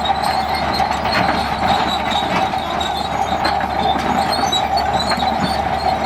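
Bulldozer running steadily, with a continuous high metallic whine over a low engine hum.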